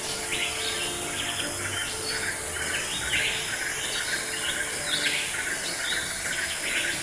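A chorus of many birds chirping, over a steady high insect drone.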